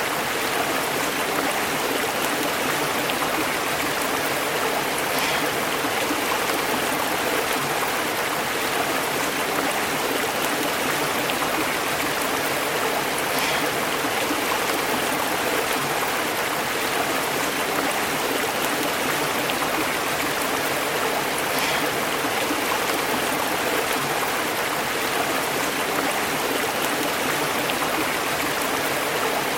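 Small stream flowing and bubbling over rocks, a steady, even burble with now and then a slightly brighter splash.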